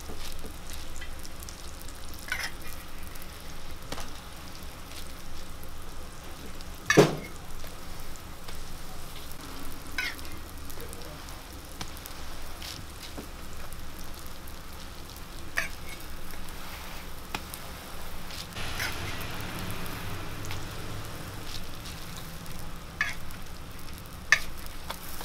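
Hotteok frying in oil on a flat griddle with a steady sizzle. Now and then a sharp metal clink sounds as the stainless-steel hotteok presses are set down on the griddle; the loudest comes about seven seconds in.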